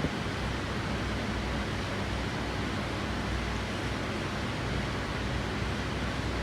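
Steady rushing background noise, even throughout, with no knocks, tool sounds or engine note.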